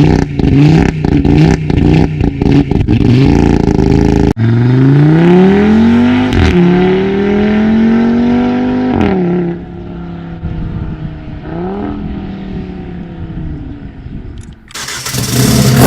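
Audi RS3's turbocharged five-cylinder engine through a Milltek exhaust, first in quick, choppy bursts, then accelerating hard with the note climbing and dropping at two upshifts before easing off. A loud, noisy burst comes in near the end.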